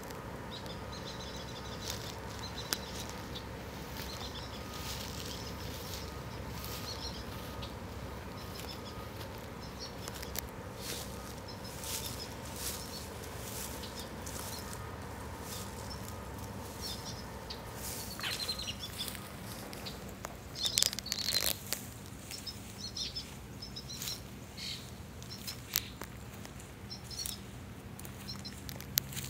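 Small birds chirping, many short high calls repeated throughout, with scattered sharp clicks and a louder flurry of calls about two-thirds of the way in, over a faint steady hum.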